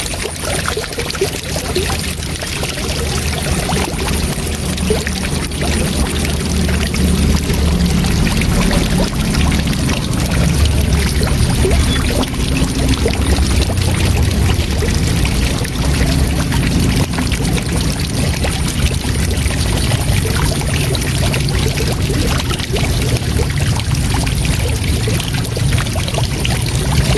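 Waterfall: a steady rush of falling water, full and even, heaviest in the low end.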